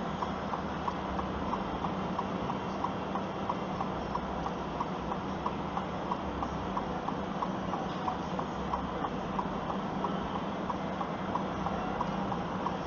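A vehicle's indicator flasher ticking steadily, about three ticks a second, over a steady engine hum inside the cabin.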